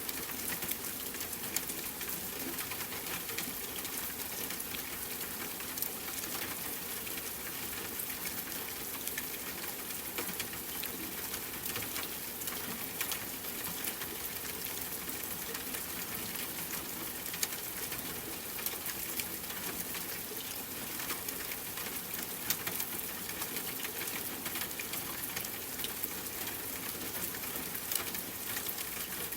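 Steady rain pattering, a continuous hiss dotted with many small drop ticks.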